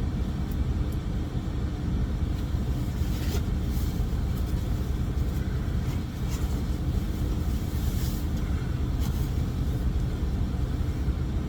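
Steady low rumble of an idling semi-truck diesel engine heard inside the cab, with a few light rustles and clicks.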